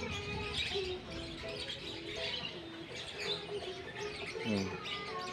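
Birds chirping, many short calls scattered throughout.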